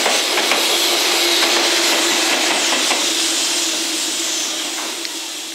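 JR Freight EF210-300 series electric locomotive, the rear banker at the tail of a container freight train, passing close and running away: rushing wheel and rail noise with a steady hum and a few clicks over rail joints, fading steadily.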